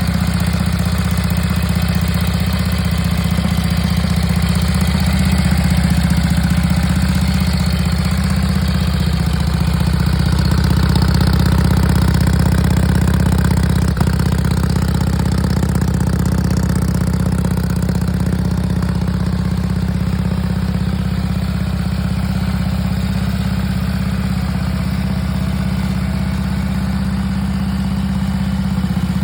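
Indian 741B's side-valve V-twin engine idling steadily as it warms up after a cold start at −12 °C. The idle runs a little faster and louder for a few seconds around the middle, then settles.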